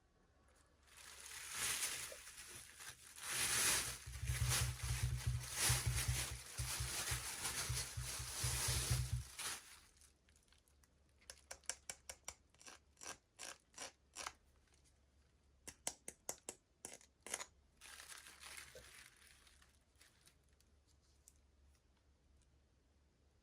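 Toy packaging being crinkled and torn open by hand for several seconds, then a run of short, sharp clicks in quick groups, and a brief faint rustle near the end.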